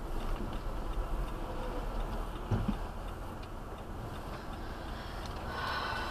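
A car's turn-signal indicator ticking steadily inside the cabin over the low hum of the car. There is a single thump about two and a half seconds in.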